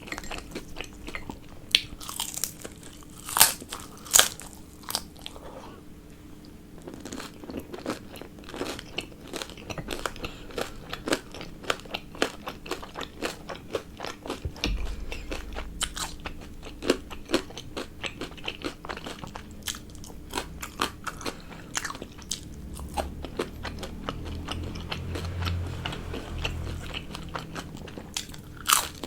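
Close-miked eating: steady biting and chewing with many sharp, crunchy clicks, the loudest bites about three and four seconds in.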